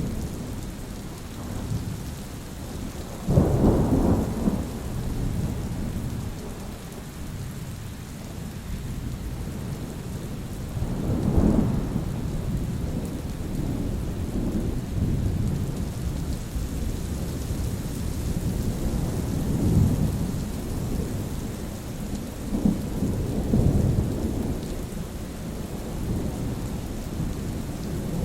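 Steady rain falling with rolling thunder. A sudden loud clap about three seconds in rumbles away, and further low rumbles follow through the rest of the storm.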